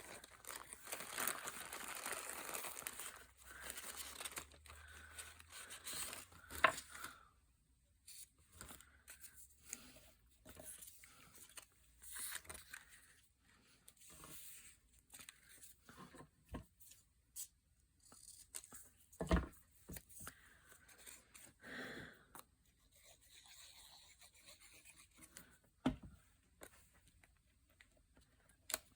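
Paper being handled: a spell of steady rustling and tearing of paper pieces, then scattered crinkles and small taps, with two louder knocks later on.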